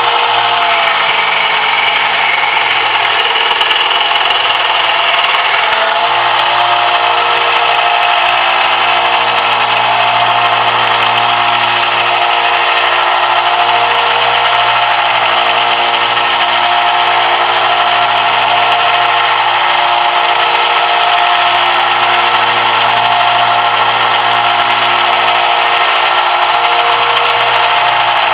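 An electric power tool running steadily and continuously on a brass fitting for a kukri knife, the metal being ground away. The sound shifts slightly about six seconds in, then stays even.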